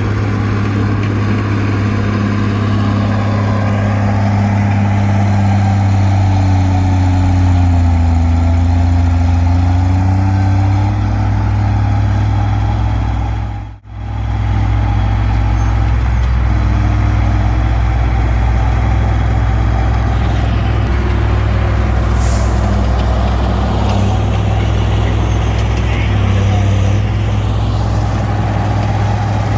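Komatsu D20P bulldozer's diesel engine running steadily under load while pushing brush, with a deep hum. Its note sags and recovers about a third of the way in, and the sound breaks off for an instant near the middle.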